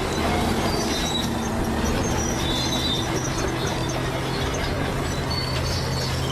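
Bulldozer's diesel engine running steadily under load while its steel crawler tracks clank and squeal in short high-pitched bursts.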